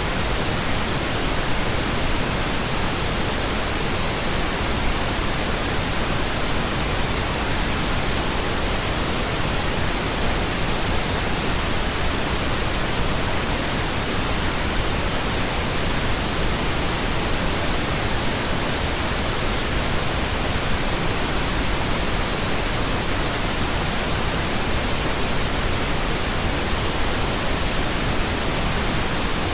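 Steady pink noise: an even, unbroken hiss spread across all pitches, with nothing starting, stopping or changing.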